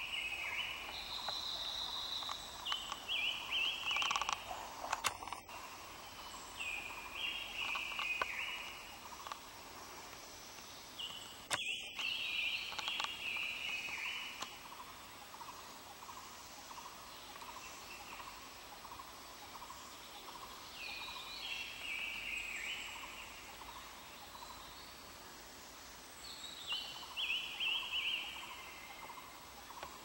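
A songbird singing short phrases of stepped, falling notes, repeated every few seconds, over fainter chattering calls of other birds. The sound drops out briefly twice.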